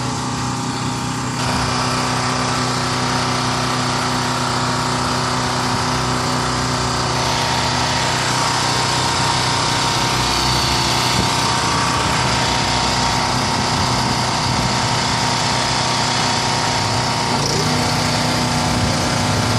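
A small engine or motor running steadily, changing character abruptly about a second and a half in and again near the end.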